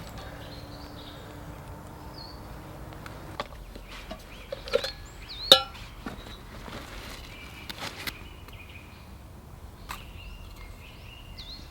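Songbirds chirping now and then in woodland, with a handful of sharp knocks and clicks from nearby handling, the loudest about five and a half seconds in.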